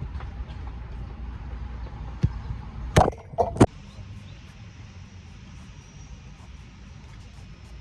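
A football being struck, three sharp thumps in quick succession about three seconds in, after a lighter thump a second earlier, over a steady low rumble.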